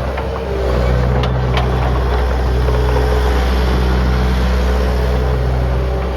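2006 Bobcat T300 compact track loader's diesel engine running steadily, with a few short clicks in the first couple of seconds.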